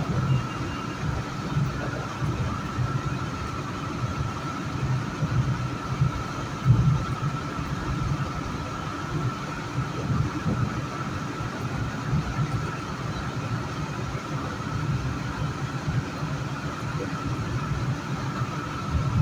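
Metro-North commuter train running through a tunnel, heard from inside the train: a steady rumble of wheels on rail with a constant high-pitched whine. There is one louder knock about seven seconds in.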